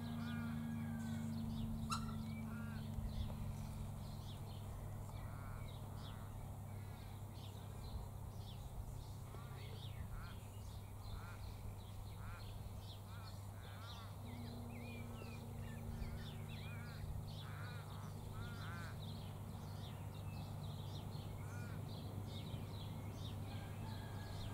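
Wild birds calling: many short, harsh, arching calls repeated at irregular intervals, over a steady low hum.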